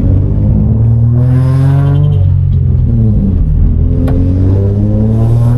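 Infiniti G35's 3.5-litre V6, running through catless test pipes, accelerating hard: the pitch climbs, drops at a gear change about two seconds in, then climbs again. The exhaust is raspy and loud.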